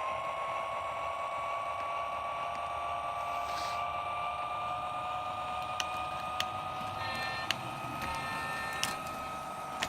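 Lionel LionChief Plus BNSF model diesel locomotive running as it gets under way: a steady two-note hum that rises slowly in pitch, with a few sharp clicks in the second half.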